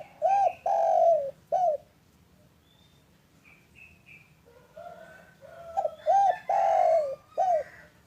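Spotted dove (derkuku) cooing: two phrases, each of short arched notes around one longer drawn-out coo, the first right at the start and the second about six seconds in. Faint high chirps from a smaller bird come in between.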